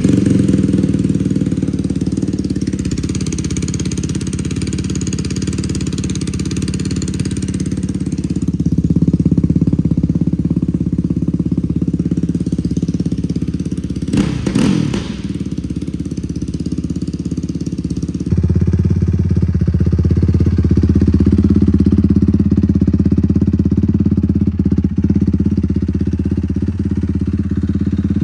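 Yamaha YFZ450R's single-cylinder four-stroke engine catching and idling on its first start with a new Dasa Racing full exhaust and a Team Alba Racing ECU flash tune. A quick rev comes about halfway through, and about two-thirds of the way in the idle steps up to a louder, deeper note.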